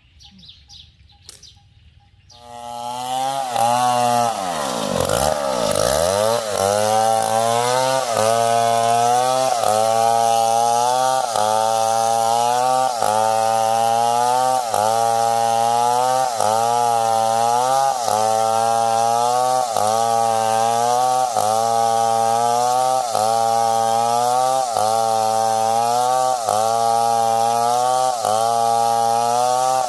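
Stihl 070 two-stroke chainsaw starting up about two and a half seconds in and running loud, bogging down hard once, then sawing into wood with its engine speed sagging and recovering in a steady cycle about once a second.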